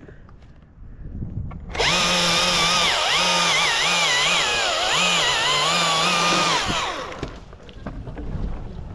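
Two-stroke chainsaw held at high revs for about five seconds while cutting, its pitch dipping and recovering several times as the chain loads in the wood, then dropping back toward idle.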